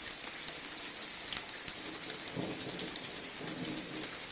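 Steady rain falling on garden plants and leaves, with many separate drops ticking.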